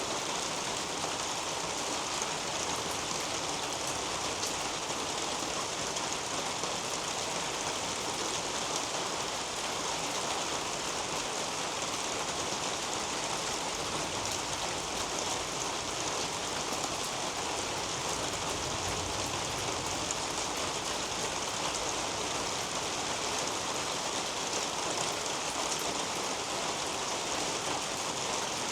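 Steady rain falling on leafy potato plants: a constant hiss dotted with many small drop ticks.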